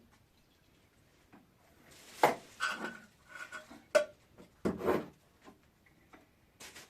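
Objects being handled: a few knocks and rubbing, scraping sounds, loudest about two seconds and five seconds in.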